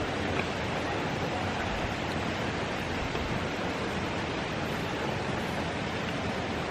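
Steady rushing of water, an even noise that holds throughout.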